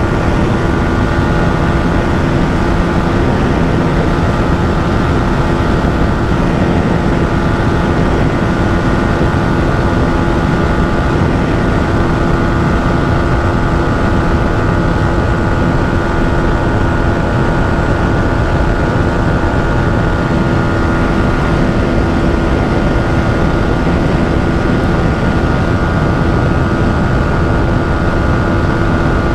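Yamaha MT-15's 155 cc single-cylinder engine held at high revs in sixth gear near its top speed, a steady unchanging drone over rushing wind noise.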